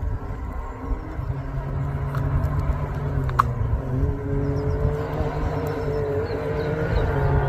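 Rally-raid competition vehicle's engine running at fairly steady revs, its note wavering slightly and growing gradually louder as it comes closer, with a sharp click about three and a half seconds in.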